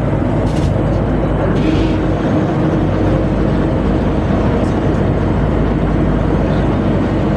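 Steady loud drone of a tugboat's engines and deck machinery running.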